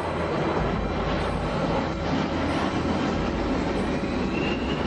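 Airbus A320 airliner flying low past, its jet engines making a steady roar, with a faint rising whine near the end.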